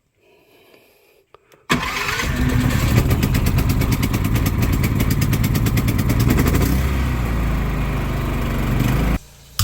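A small petrol engine running steadily at speed. It comes in abruptly a couple of seconds in and cuts off abruptly shortly before the end.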